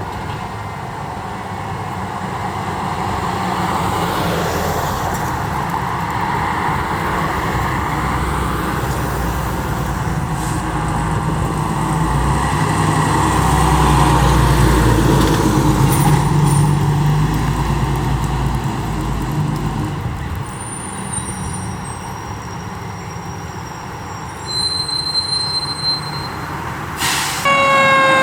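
Fire truck going past on an emergency response, its engine rumble and road noise building to a peak about halfway and then fading. Near the end a loud siren wail starts, falling slowly in pitch.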